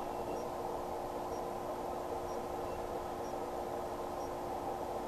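Steady background hum and hiss of a running appliance or fan, with a faint tick about once a second.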